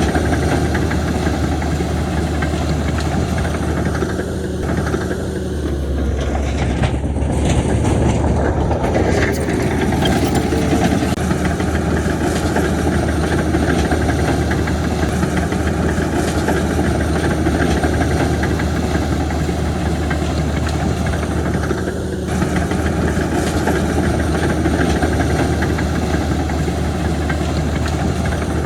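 Heavy diesel construction machinery running steadily, a deep continuous engine drone that grows fuller about six seconds in and eases back near the end.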